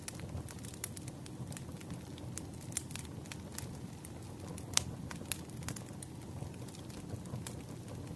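Campfire burning: wood crackling and popping in sharp, irregular snaps over a low, steady rush, with one louder pop about five seconds in.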